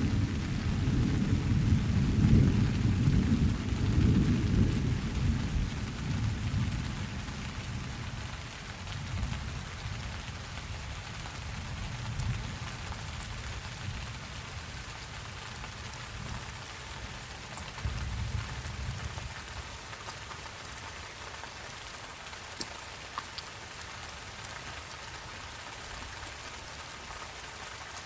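Steady rain with rolling thunder: a long, low rumble of thunder fades out over the first several seconds, and a fainter rumble returns about two-thirds of the way through, over an even patter of rain.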